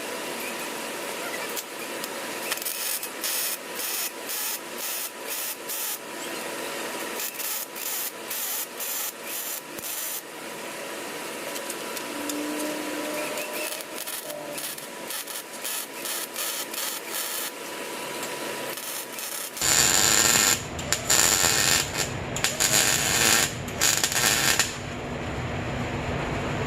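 Wire-feed welder tack-welding a patch onto a car exhaust pipe: the arc crackles in a string of short bursts, then runs louder and longer about twenty seconds in.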